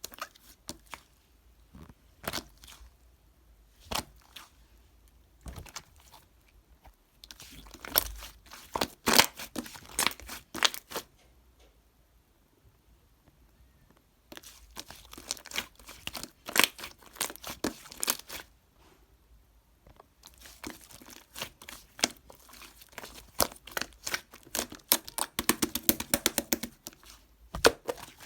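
Crinkly material being handled and torn, in bursts of sharp crackling with quiet gaps between; the densest, fastest crackling comes near the end.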